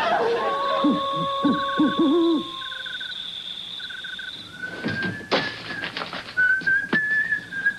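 Night ambience: an owl hooting over a steady high insect chirping, then someone whistling a wavering tune, with a few sharp knocks.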